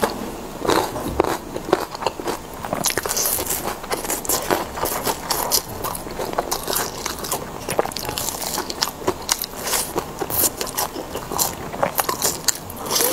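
Close-miked eating: biting into and chewing crisp fried food, a steady run of crunching and crackling with wet mouth sounds.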